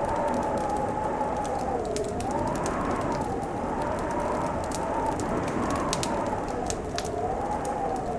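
Fireplace crackling with scattered sharp pops over a steady low rush. Through it runs a wavering howl of blizzard wind that rises and falls in pitch.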